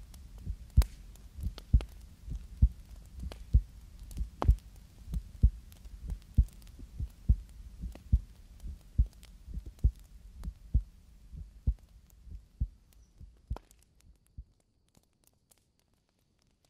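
Heartbeat heard up close, low thumps about once a second, some in lub-dub pairs, over a faint low hum. It fades out about fourteen seconds in, leaving a few faint clicks.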